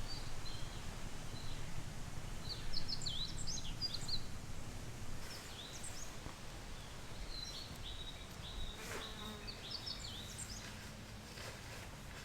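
Small birds singing: quick high chirps and short twittering phrases, repeated in clusters, over a low steady hum.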